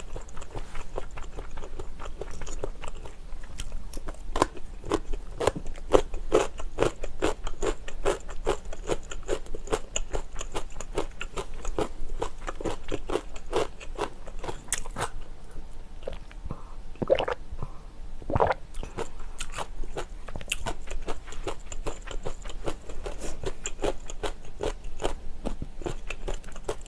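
Close-miked chewing with a dense, irregular run of crisp crunches from a person eating, with two louder crunches a little over halfway through.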